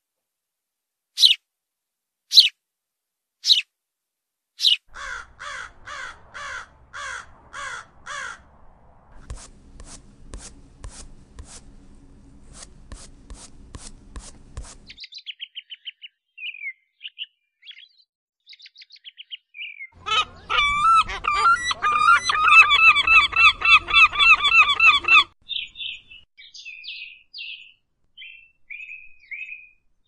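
Songbirds calling and singing in a run of separate clips: a few sharp single calls, then rows of repeated notes and fast ticking, then thin high whistled phrases, and a loud warbling song from about twenty to twenty-five seconds in, followed by more thin notes.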